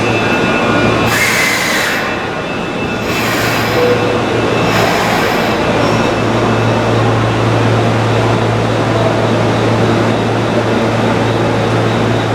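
Electric train running slowly through a station, with a steady low hum and three short high hisses in the first five seconds.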